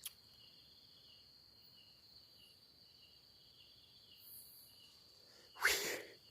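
Crickets and other night insects trilling faintly and steadily. Near the end there is a short, loud rush of noise.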